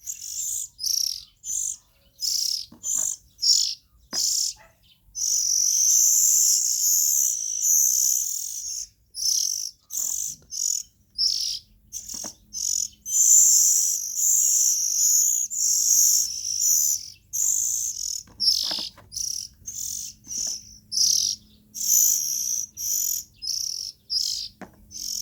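Young oriental magpie-robin singing: quick, high chirping notes in short phrases, breaking into longer runs of continuous warbling about five seconds in and again around thirteen seconds.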